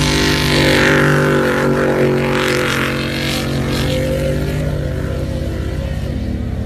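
Pickup truck engine running hard, with a loud rushing hiss over the first few seconds that then fades, leaving the engine running on steadily.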